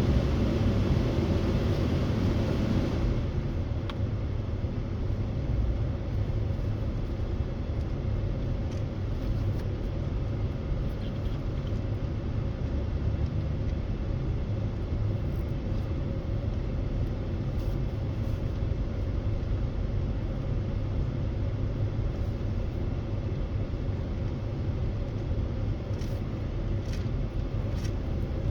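A truck driving, with a steady low engine and road rumble. It gets a little quieter about three seconds in.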